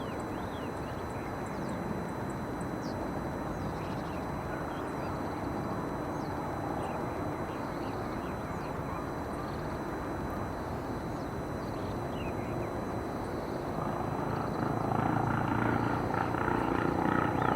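Steady outdoor background rumble with faint, scattered small-bird chirps. Near the end a louder engine drone builds up, like an aircraft or vehicle passing.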